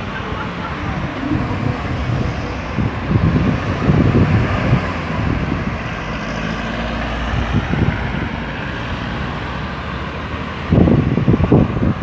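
Road traffic moving around a busy roundabout: cars and heavier vehicles running past, engines and tyres. Louder low rumbles come at about four seconds in and again near the end.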